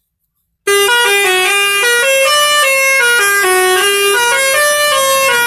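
A musical horn-like tune: a quick melody of steady notes, about four a second, starting a little under a second in after a brief silence.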